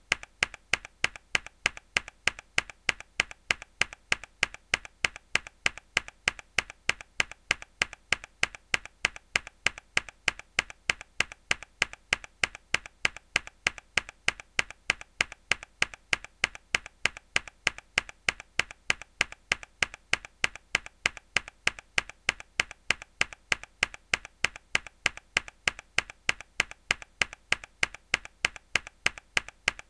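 A mechanical keyboard key struck hard, the same sharp click repeated at an even, quick pace several times a second.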